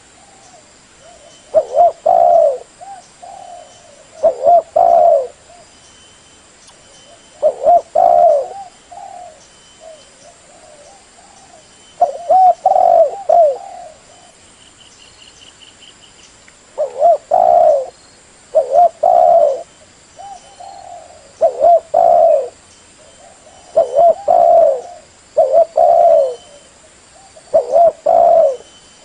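Female spotted dove cooing: short groups of a few low coos, repeated every two to four seconds. This is the female's call used to draw wild males in to a trap.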